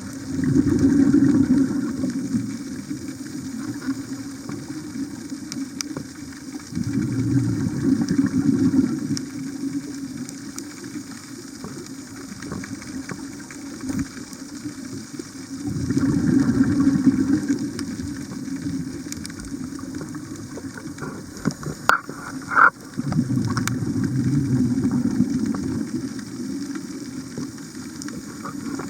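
Scuba diver's exhaled bubbles from the regulator, four long gurgling surges about every seven to eight seconds with quieter breathing between. A few sharp clicks come shortly before the last surge.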